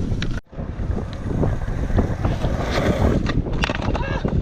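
Wind buffeting the microphone in a loud, steady rumble, with scattered sharp clicks and knocks. It cuts out sharply for a moment about half a second in.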